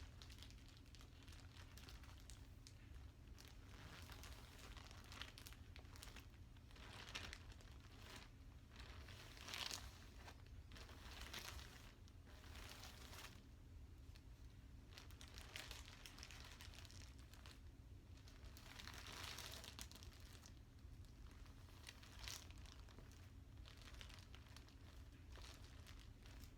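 Soft plastic packaging being handled and crinkled in irregular bursts, with a few sharper crackles.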